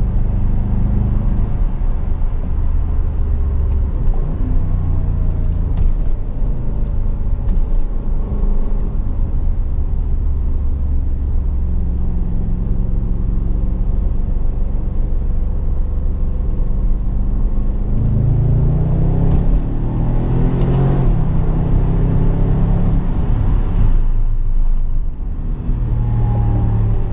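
BMW 650i's V8 engine and road noise while driving, the engine pitch rising and falling with speed and a brief drop in level near the end.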